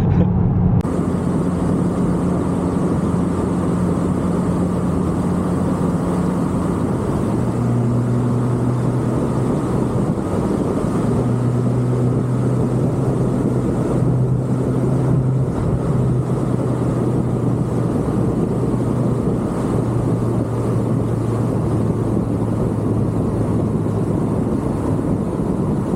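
Car engine and road noise heard from inside the cabin while driving at a steady pace. The engine's hum drops in pitch about seven seconds in, then wavers up and down a little.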